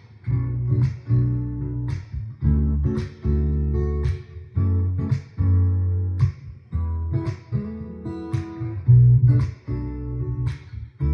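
Background music: acoustic guitar strummed and plucked in a steady rhythm, chords struck about once a second.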